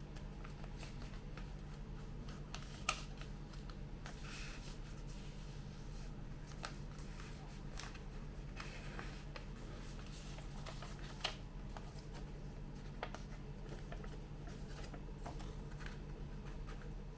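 A sheet of A4 paper being folded and creased by hand: scattered rustles and crisp taps, with a sharper snap about three seconds in and another near eleven seconds, over a steady low electrical hum.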